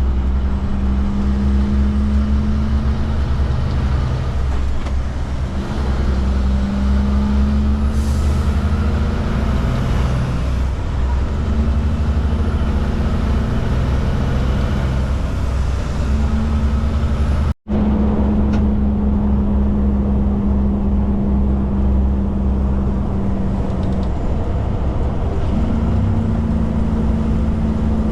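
Kenworth K200 cabover truck's Cummins diesel engine running steadily at highway cruise, heard inside the cab as a loud, even drone with a low hum. The sound cuts out for an instant about two-thirds of the way through.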